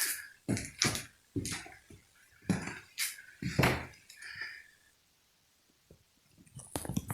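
Irregular knocks and crunches among loose junk and debris, about two a second, then a pause and a short burst of knocks near the end, echoing in a small room.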